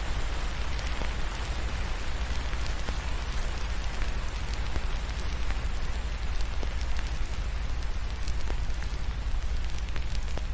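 Steady rain hiss mixed with a wood fire crackling, with frequent sharp little pops over a low steady rumble.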